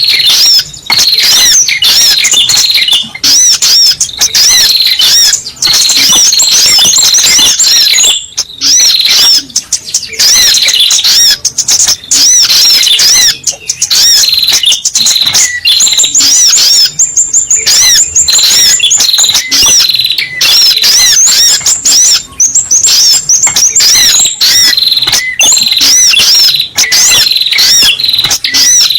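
Spiderhunter (sogok ontong) calls played as a bird lure: a loud, unbroken run of rapid, high, sharp chirps that repeat over and over, with short breaks about 8 and 17 seconds in.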